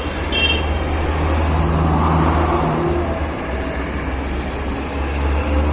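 Steady low rumble of road traffic. A short high chirp comes just after it starts.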